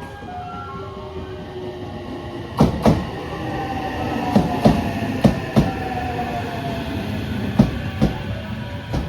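Electric train rolling slowly through the station over rail joints. Its wheels clack in pairs as each bogie crosses a joint, over a steady rumble and a motor whine that falls in pitch.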